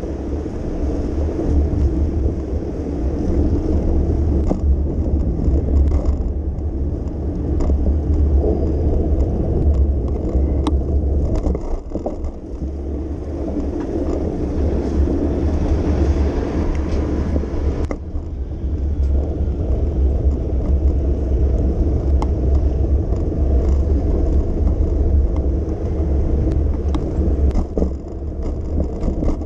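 Steady low rumble of riding on a bicycle through city streets: tyre and road noise mixed with wind on the microphone, with a few faint clicks.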